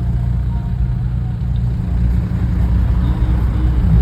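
A car engine running with a steady low rumble, growing slightly louder toward the end.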